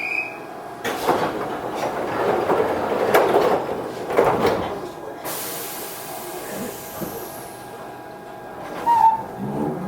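Inside a Toyohashi Railway 1800 series electric train: rumble and clatter, then a burst of air hiss about halfway through. Near the end the traction motors start to whine, rising in pitch as the train pulls away.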